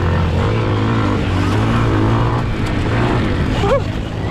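Pit bike engine under race throttle, its pitch rising and falling as the rider works the throttle through the track. Near the end a higher engine note climbs and falls.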